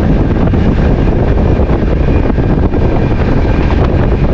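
Passenger train running at speed, heard at an open window: a loud, steady rush of wind and wheel-and-rail rumble.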